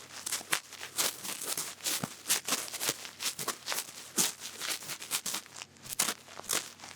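Close-miked cotton bud rubbing and scratching in an ear, as in ASMR ear cleaning: quick, irregular, bright scratchy strokes, several a second.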